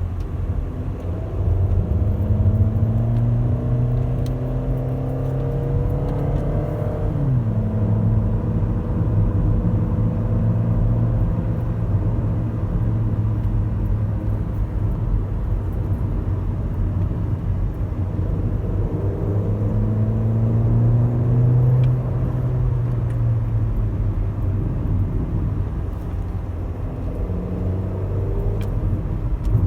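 Audi A3 8P 2.0 FSI four-cylinder petrol engine through a modified exhaust, heard from inside the cabin while driving. The steady drone climbs slowly in pitch under acceleration and drops sharply at a gear change about seven seconds in. It climbs again and eases off a little after twenty seconds.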